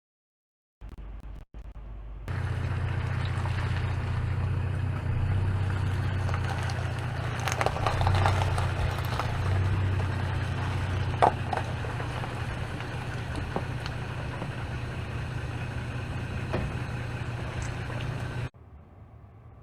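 A vehicle engine running steadily as a low hum, with a few light clicks and knocks. It starts about two seconds in and cuts off suddenly near the end.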